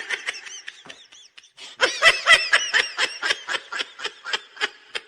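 A person laughing in a quick run of short 'ha' pulses, about four or five a second, softer at first and louder from about two seconds in.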